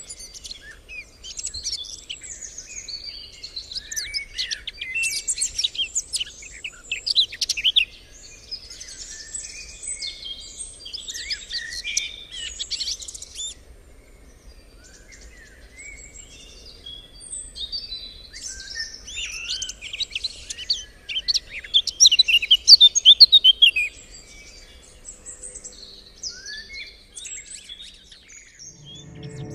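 Several birds singing and chirping at once, a dense chorus of quick high calls and trills that thins out briefly midway and peaks again later.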